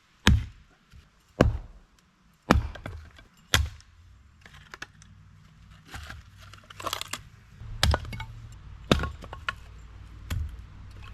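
A series of sharp, hard knocks or strikes: four about a second apart, then a few quieter knocks, then two or three more strikes near the end, each with a dull thud.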